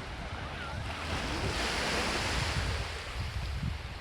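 Small sea waves breaking and washing up a sandy beach, one wash swelling up and fading about two seconds in. Wind rumbles on the microphone throughout.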